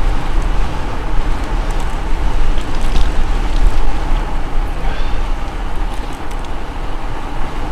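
Wind rushing over a GoPro action camera's microphone while cycling, a steady loud rush with a heavy low rumble, mixed with the hiss of bicycle tyres on the road.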